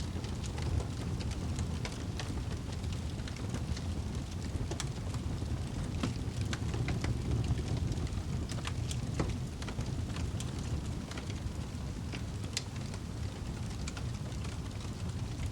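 A wood fire burning in a fireplace: a steady low rumble of flames with frequent small crackles and pops.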